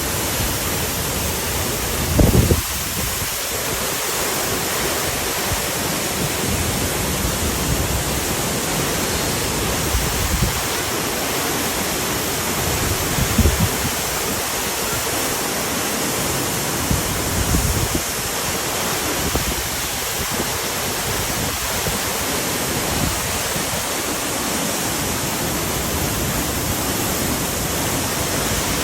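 Waterfall rushing with a steady, even roar of falling water. A few brief low thumps on the microphone break in, the strongest about two seconds in.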